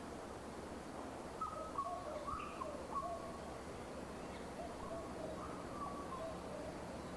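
A bird calling in short whistled notes, in two bouts about a second and a half in and again near five seconds, over a faint steady background hiss.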